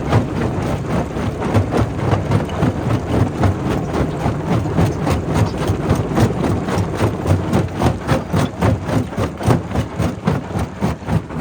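Primary rock crusher running: a steady low rumble under rapid, continuous knocking and rattling.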